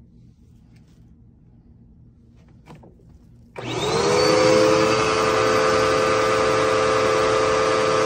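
A few faint clicks, then about three and a half seconds in the Dirt Devil Endura Reach bagless upright vacuum's motor switches on. Its whine rises quickly to a steady pitch, and it runs steadily and loudly.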